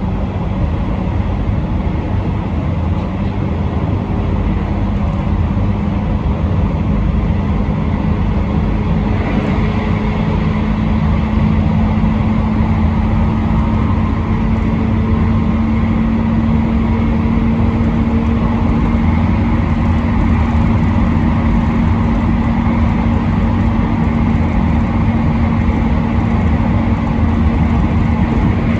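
Steady running noise of a train heard from inside the front car: a constant rumble of wheels on rail with a low motor hum that climbs slightly in pitch as the train picks up speed.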